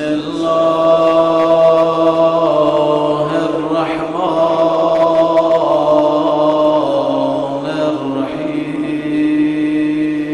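A man's solo voice chanting a dhikr in long, drawn-out held notes, with a short break and a change of pitch about four and eight seconds in.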